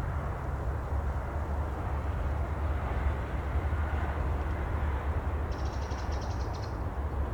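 Steady sea ambience: a continuous low rumbling wash of water. About five and a half seconds in there is a brief high twittering that lasts about a second.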